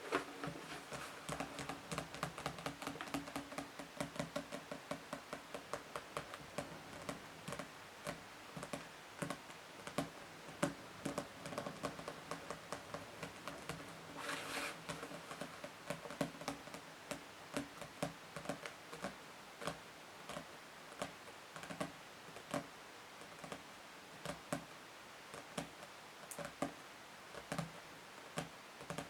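Fingers tapping quickly and irregularly on books, soft and close, with one brief scratching sound about halfway through.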